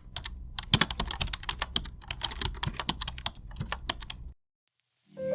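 Rapid clicking of computer keyboard typing, fast irregular keystrokes that stop about four seconds in. After a brief gap, music with xylophone-like notes begins near the end.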